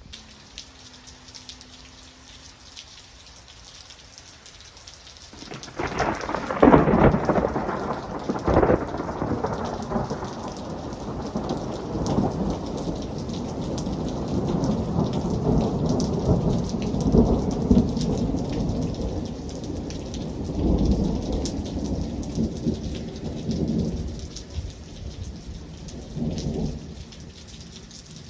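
Steady rain falling, then about five seconds in a sudden loud thunderclap that breaks into long rolling thunder, rumbling on with several swells before dying away near the end.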